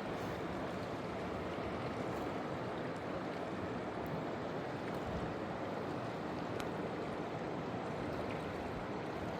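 Steady rushing of a fast-flowing mountain river, with a few faint clicks over it.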